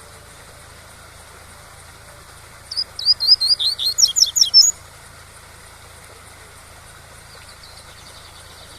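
Double-collared seedeater (coleiro) singing one fast phrase of the tui-tui song, about a dozen quick slurred whistled notes lasting about two seconds, starting roughly three seconds in. A steady waterfall rush runs underneath.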